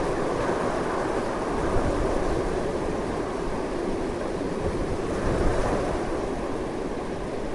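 Strong, continuous wind rushing, steady with slight swells and no gaps.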